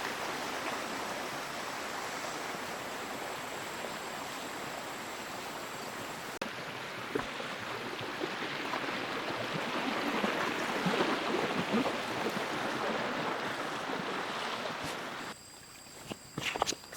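Stream water rushing steadily, swelling with a faint crackle partway through. About fifteen seconds in it cuts off, and a few sharp clicks follow.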